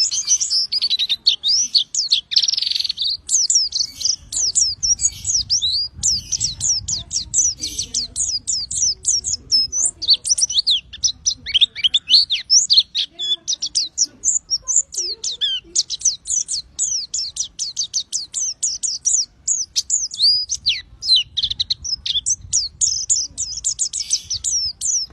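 Pleci (white-eye) songbird singing its rapid-fire 'tembakan' song: a long, continuous stream of quick, high, sharp chirps, many each second, with only brief pauses.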